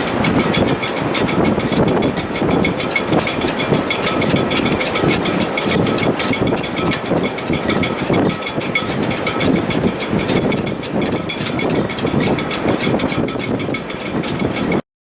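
Wind in a sailboat's shrouds and rigging in heavy weather: a loud, gusting rush with faint steady whistling tones. It cuts out abruptly near the end.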